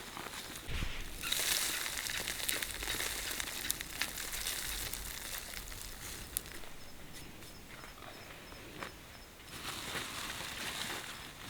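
Rustling and crinkling handling noise with scattered light clicks and knocks, louder in the first few seconds and again near the end.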